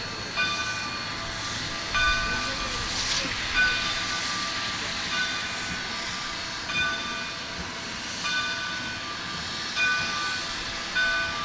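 Narrow-gauge steam locomotive standing with steam hissing steadily, while a clanging strike with several ringing tones repeats about every second and a half, like the locomotive's bell being rung before departure.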